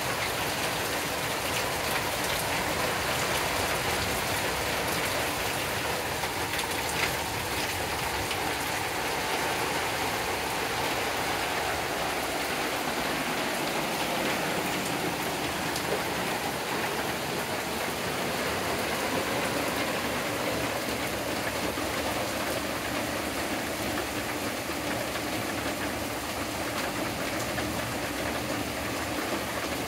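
Steady thunderstorm rain falling on the woods and wooden deck, an even hiss of rainfall with a couple of sharper single ticks.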